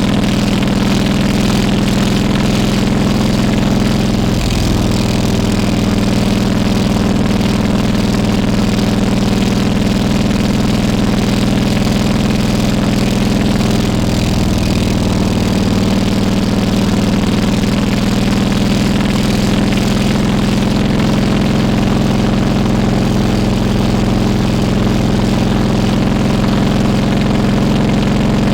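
Harley-Davidson Road King Classic's V-twin engine running steadily at an even pitch, with no revving.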